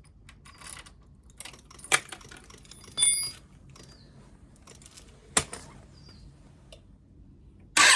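Keys jangling, with a few sharp clicks and ticks. A short metallic jingle comes about three seconds in.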